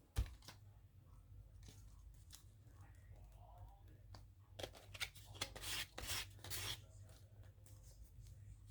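Scissors snipping paper cut-outs for a collage: a light knock at the start, then a run of short crisp snips and paper rustles about halfway through.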